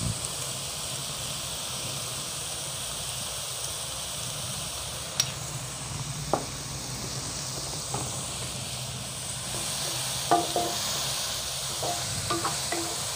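Onions, green chillies and tomatoes sizzling steadily in oil in a non-stick wok as they are sautéed soft. A few light clicks come around the middle, and a wooden spatula stirring and knocking against the pan is heard near the end.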